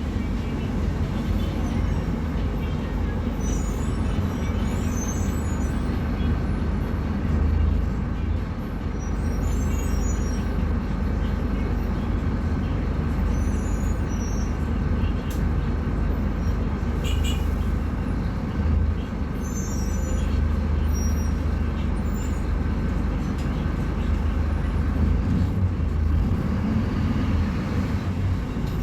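Scania K250UB bus diesel engine running steadily, with a short sharp click about seventeen seconds in and faint high chirps on and off.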